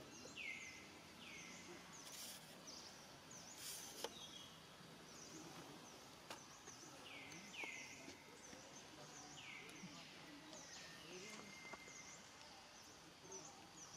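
Faint outdoor ambience with a bird calling over and over: short notes that fall in pitch, roughly every second or two, mixed with higher, quicker chirps.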